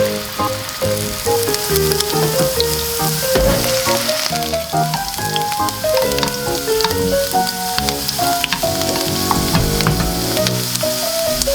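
Food sizzling as it fries in a hot pan, a steady hiss, under background music with a stepping melody.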